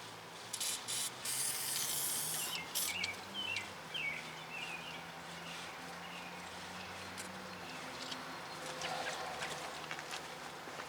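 A loud hissing spray, broken by short pauses, lasting about two and a half seconds. After it come small birds chirping, with a low steady hum in the background.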